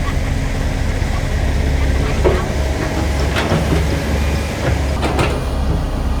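Heavy diesel construction machinery running steadily, with a few sharp metal clanks and scrapes about two, three and a half, and five seconds in.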